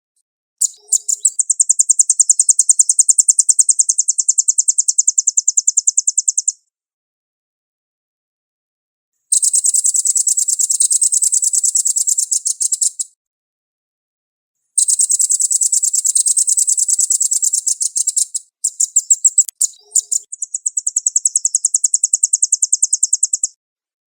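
Velvet-fronted nuthatch (red-billed 'rambatan') singing in long, very rapid, high trills of repeated notes. There are about five runs, each a few seconds long, separated by silent gaps.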